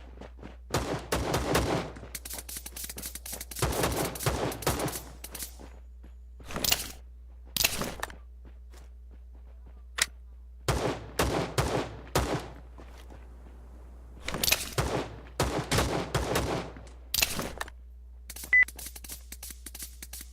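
Irregular bursts of rustling and knocking, each a second or so long, over a steady low hum.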